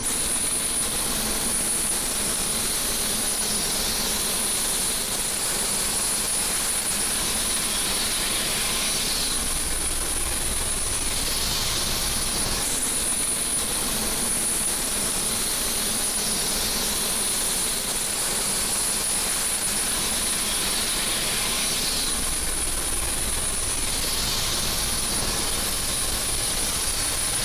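Helicopter turbine and rotor running steadily: a constant high whine over a broad rushing noise that swells gently every few seconds.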